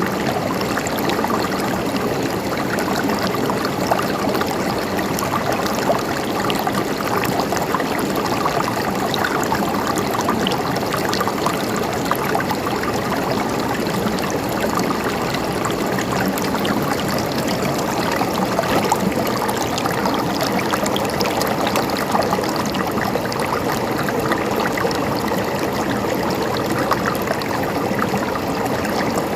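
Shallow river flowing steadily over rocks, a continuous rushing and gurgling with small splashes scattered through it.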